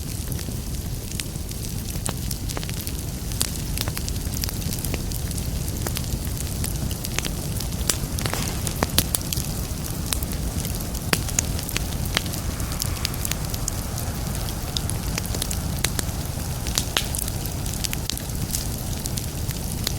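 Wood fire burning in a fireplace: a steady low rumble of flames with frequent sharp crackles and pops at irregular intervals, a cluster of louder pops around the middle.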